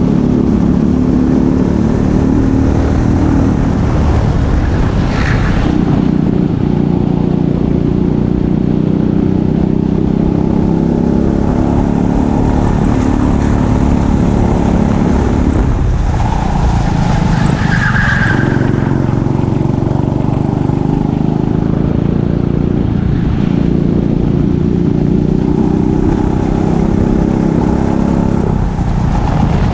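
Racing kart engine running hard, its pitch dropping several times as the kart brakes for corners and climbing again as it accelerates out, with a brief tyre squeal about two thirds of the way through.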